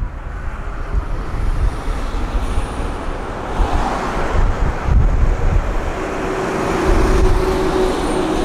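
Odakyu electric train running past at trackside, its wheels thumping over the rail joints at irregular intervals. A steady hum comes in about six seconds in.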